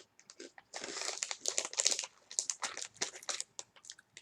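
Irregular crinkling and crunching up close: a snack bag being handled while crunchy snacks are chewed.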